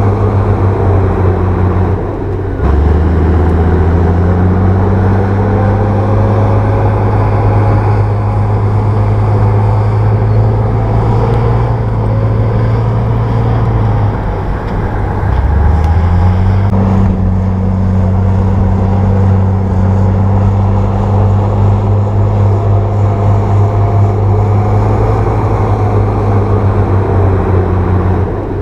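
Bulldozer's diesel engine running under load. Its note dips and shifts a few seconds in and again about halfway, each time settling back into a steady drone.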